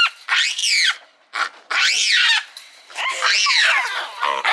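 A monkey calling loudly: three shrill screeches, each about a second long, rising and falling in pitch, with a fourth starting near the end.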